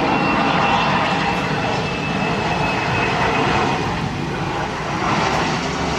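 Jet airliner engines running: a steady roar with a faint high whine that slowly falls in pitch.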